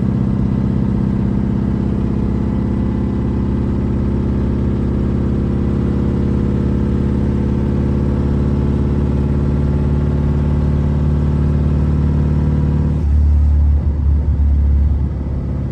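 Straight-piped four-cylinder BMW E36 engine, fitted with a cheap AutoZone muffler, droning at a steady cruise. About 13 seconds in the note drops deeper and gets louder for a couple of seconds before settling.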